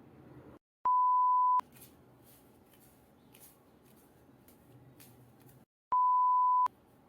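Two electronic beeps, each a pure steady tone held for under a second, about five seconds apart, over faint room background with light rustling.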